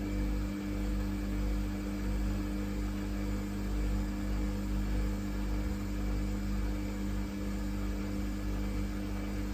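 Samsung WF1700WRW washing machine running its daily programme: a steady motor hum with two constant tones over a low rumble.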